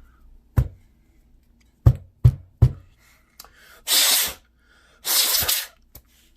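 Small plastic flip-phone parts knocked against a surface four times, then two short hissing rushes of air a second apart.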